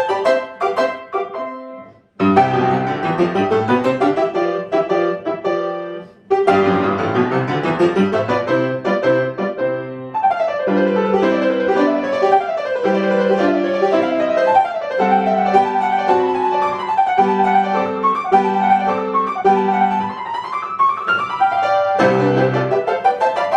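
Solo piano playing a classical-style piece. Two short phrases stop briefly about 2 and 6 seconds in, then a continuous passage of repeated chords and a moving melody follows.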